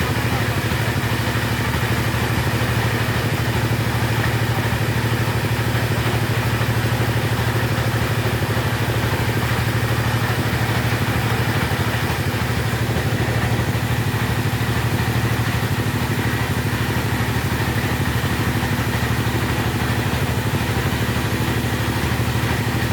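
Chainsaw engine running steadily at a constant pitch.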